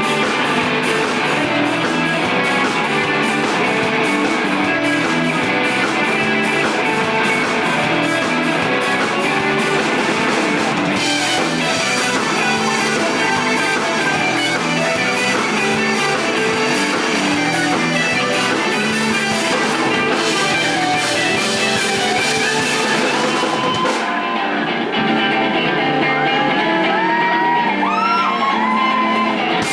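Live rock band playing, with electric guitars and a drum kit. Near the end the cymbals drop out and sliding, bending notes come to the front.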